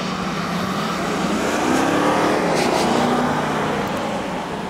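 Audi A8 engine accelerating through a cone slalom on a wet track, its pitch rising and falling as the driver works the throttle, loudest around the middle.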